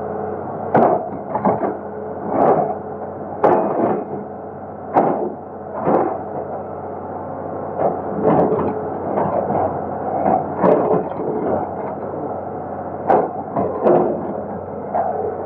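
Excavator's diesel engine running steadily while sharp knocks and cracks come irregularly, about once a second, as the machine breaks up the concrete bridge.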